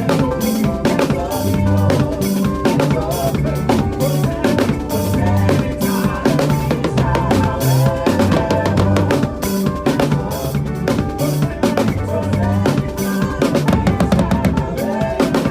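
Drum kit playing a fast, steady makossa groove with bass drum, snare and rimshots, over a band backing of bass and keys.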